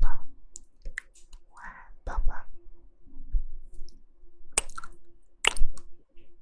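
ASMR mouth sounds close to the microphone: wet tongue clicks and lip smacks with soft breathy sounds between, and two sharper clicks in the second half.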